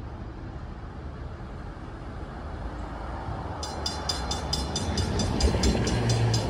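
Low rumble of an approaching train, growing louder. About three and a half seconds in, a railroad grade-crossing bell starts ringing rapidly, about five strikes a second.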